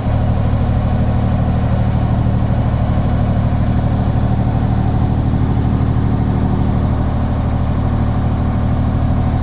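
A boat's engine running at a steady speed, a loud, even low hum with a fast pulse.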